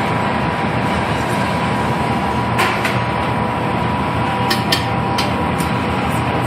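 Glassblower's gas burner running with a steady rushing noise, with a few light clinks about two and a half seconds in and again around five seconds in.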